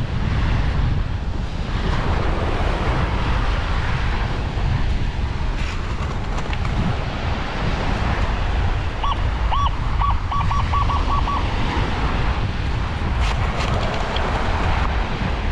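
Wind buffeting the microphone over the wash of surf on the beach, a steady low rumble. About two-thirds of the way in comes a quick run of short, high chirping beeps.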